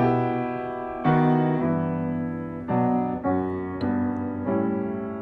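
Solo piano playing slow hymn chords without singing, each chord struck, held and fading, a new one roughly every second.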